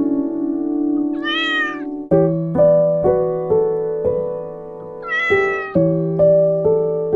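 A cat meows twice, one drawn-out meow about a second in and another around five seconds in, over piano music with notes struck about twice a second.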